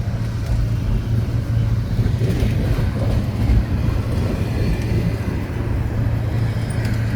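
Steady low rumble of a long container freight train rolling past, with no clear breaks or changes.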